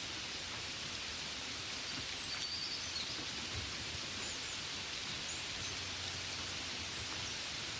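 Steady rain falling, an even soft hiss. A few faint high chirps come through about two to three seconds in and again a little past the middle.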